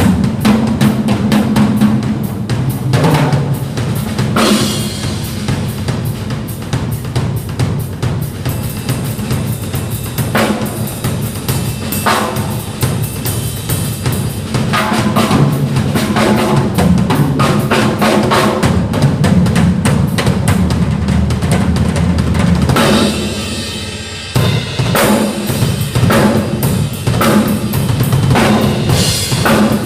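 Drum kit played continuously in a fast, busy pattern of bass drum, snare and cymbal strikes, with a brief break about three quarters of the way through before the playing picks up again.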